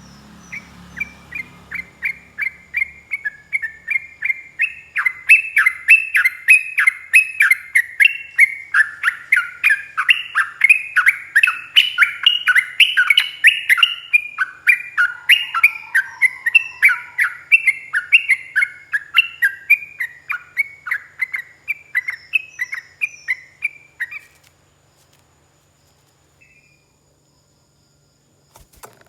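Yellow-vented bulbul (trucuk) singing a long, unbroken run of quick, bubbly notes at an even pace, several a second. The song stops about twenty-four seconds in, and a click follows near the end.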